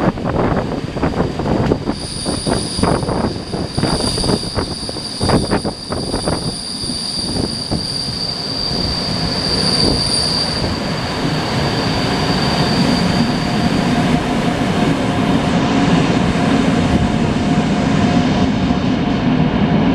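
Train running on rails with its wheels squealing: a high, steady squeal that sets in about two seconds in and fades away past the middle. Over the first several seconds there is also a quick run of knocks from the wheels over the track, which gives way to a steady rumble.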